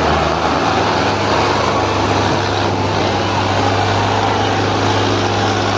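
Tractor diesel engine running steadily, heard over a dense noisy background.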